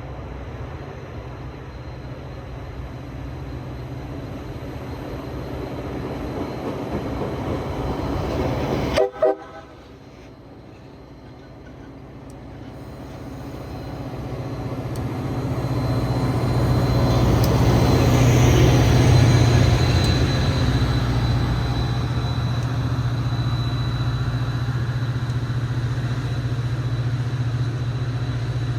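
WeGo Star diesel commuter train passing: a rising rumble, a short horn blast about nine seconds in, then a steady low engine drone that swells to its loudest midway and stays loud as the train goes by.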